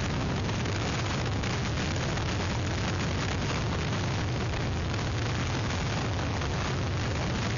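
Hurricane wind blowing steadily against an outdoor webcam microphone: a dense, unbroken rush with a heavy low rumble under a hiss.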